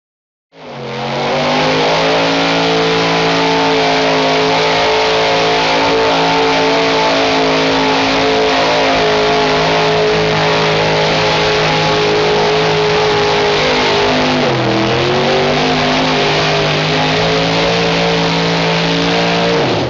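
Gas-engined modified pulling truck at full throttle under load on the sled, its engine held at steady high revs; the revs sag briefly about fifteen seconds in, pick back up, then fall off at the very end. The engine sound cuts in suddenly about half a second in.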